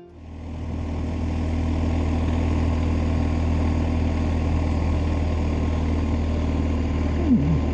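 BMW R1250GS Adventure's boxer-twin engine running steadily while riding, with wind and road noise, fading in over about the first second. A short falling tone comes near the end.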